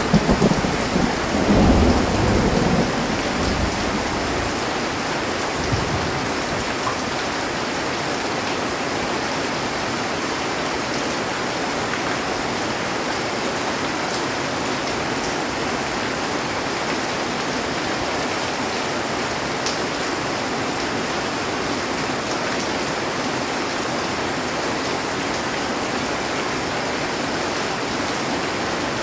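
Heavy rain falling steadily on a metal roof. A roll of thunder rumbles low through the first few seconds and fades out.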